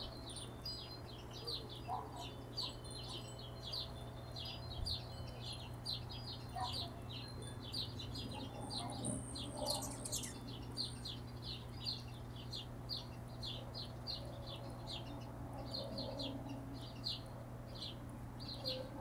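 Hummingbirds chipping: short, high, rapid chip notes repeated about three times a second without a break, with a brief higher whistle partway through.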